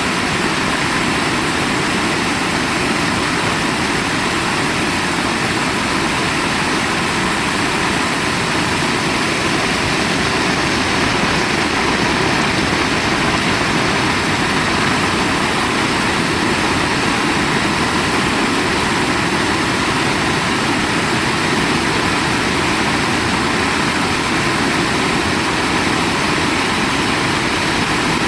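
Heavy rain falling, a dense steady hiss with no breaks or separate impacts.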